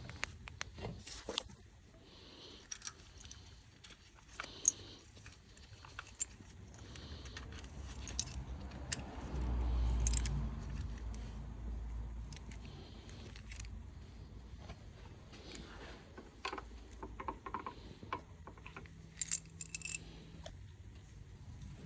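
Metal hand tools and small parts clinking and rattling in a series of short, irregular clicks and knocks, with a low rumble that swells and fades about halfway through.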